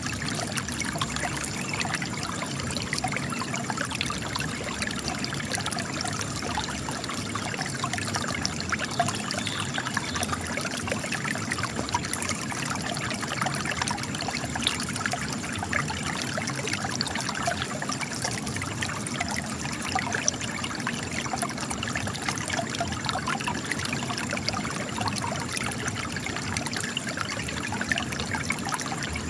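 Spring water trickling and splashing steadily as it gushes out of cracks in rock, a continuous patter of small splashes.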